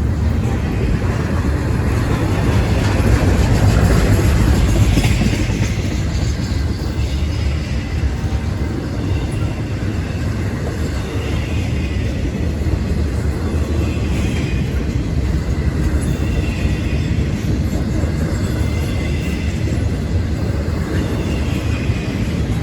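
Freight train rolling past with a steady low rumble of wheels on rail, loudest a few seconds in, and faint high squeals coming and going through the latter part.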